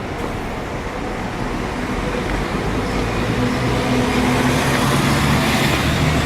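Steady engine and vehicle noise with a low hum, growing louder through the second half.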